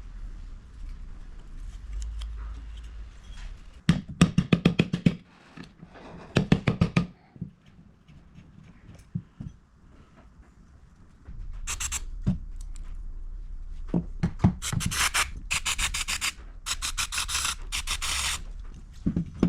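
Ratchet spanner clicking in quick runs of about ten clicks a second, with metallic scraping, while the carburettor is being unbolted from a Holden EJ.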